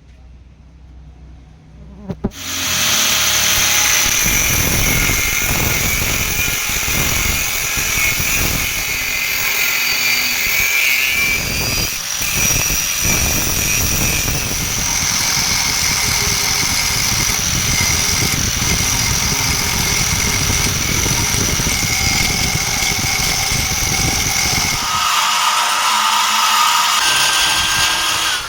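A power tool starts suddenly about two seconds in and runs loud and steady, a high whine over dense noise, changing in tone near the end.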